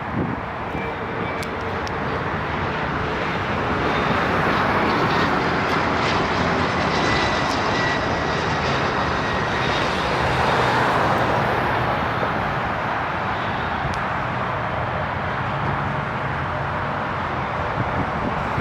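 Jet airliner coming in to land, passing close by: a steady engine roar that swells to its loudest about halfway through and then eases slightly, with a faint whine that falls a little in pitch.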